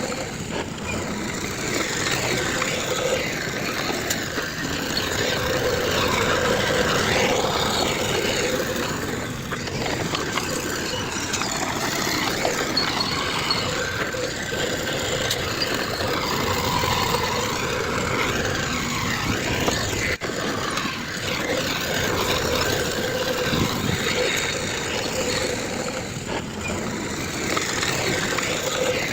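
Diesel engines of earthmoving machinery, a bulldozer and dump trucks, running steadily at a constant level.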